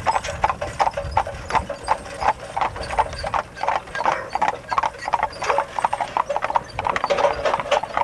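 Horse's hooves clip-clopping at a walk, a steady run of hoofbeats.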